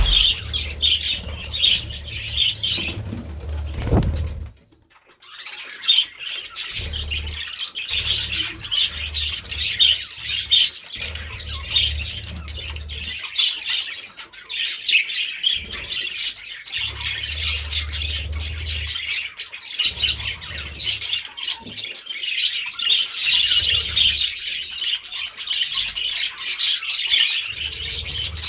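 A flock of budgerigars chattering and chirping continuously, with a brief break about four and a half seconds in. A low rumble comes and goes underneath.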